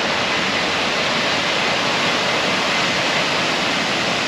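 Steady rush of water tumbling down a boulder-strewn creek and waterfall, an even unbroken hiss.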